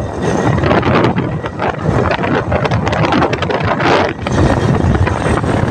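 Wind buffeting the microphone on a moving motorcycle, over the bike's running and road noise, loud and steady with a brief dip about four seconds in.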